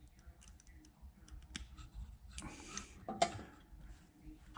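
Faint scattered clicks and light scraping of small wiring-loom terminals and a connector plug being handled, with one sharper click a little after three seconds.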